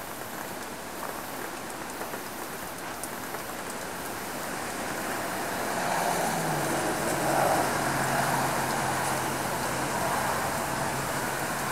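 Hurricane wind and rain making a steady rushing noise, which grows louder about halfway through, with a low steady hum under it.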